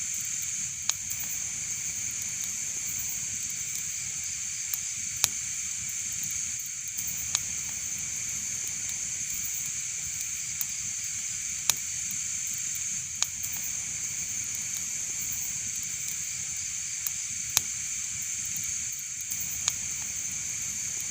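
Wood fire burning in a fireplace: a steady hiss and low rumble with sharp crackling pops at irregular intervals, roughly one every two seconds.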